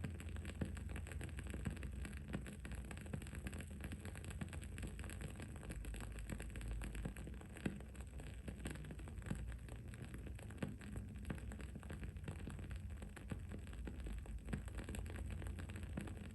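Wooden candle wick crackling: a steady stream of small, irregular pops and ticks, with a few louder snaps, over a low steady hum.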